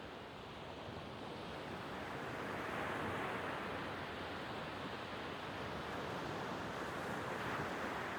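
Sea waves washing on the shore: a steady rushing that swells about two to three seconds in.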